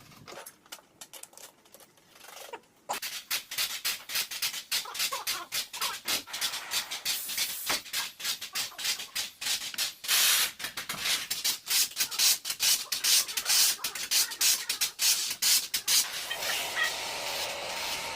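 Rapid, irregular scraping strokes, several a second, starting about three seconds in, with a steadier hiss taking over near the end.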